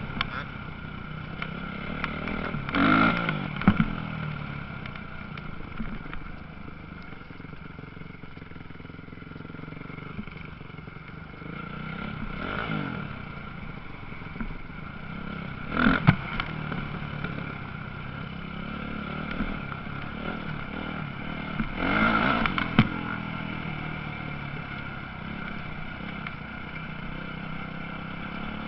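Motocross bikes racing on the track, a steady drone of engines with louder surges of revving as bikes pass close, about three seconds in, near the middle, and again a few seconds later.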